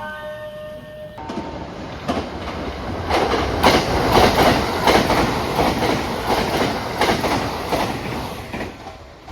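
Electric train running on the rails at close range, its wheels clacking over the rail joints; it grows loud about three seconds in and fades toward the end. An electronic chime melody cuts off about a second in.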